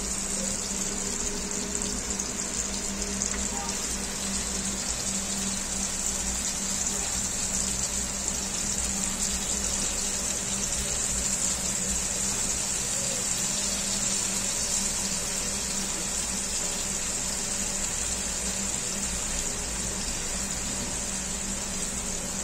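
Marinated chicken tikka skewers sizzling steadily in oil on a grill pan, one side already fried and the pieces being turned. A low steady hum runs underneath.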